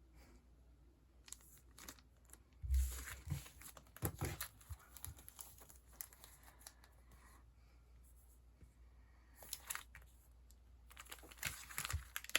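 Sticker packaging and sheets being handled, crinkling and rustling in two spells, with a soft thump about three seconds in.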